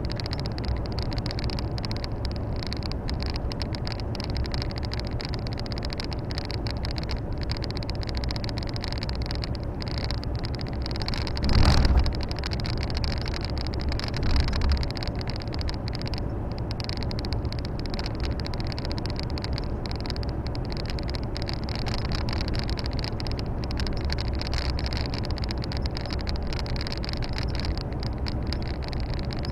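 Cab interior of a Volvo FH 460 truck on the move: its 13-litre six-cylinder diesel and road noise run steadily. About twelve seconds in a loud thump jolts through, and a smaller thump follows a couple of seconds later.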